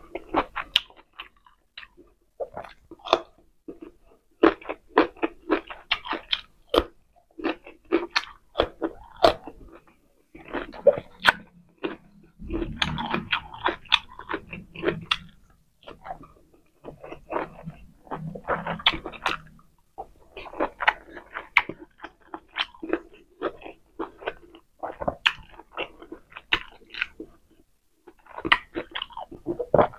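Close-miked eating sounds: chewing pork steak and rice eaten by hand, with irregular wet smacks and clicks of the mouth all through. A low hum comes twice around the middle.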